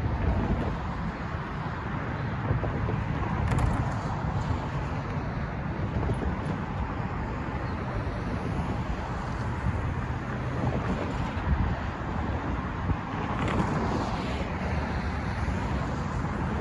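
Freight train rolling past with a steady low rumble from the cars' wheels on the rails, and a few faint clicks. Wind buffets the microphone.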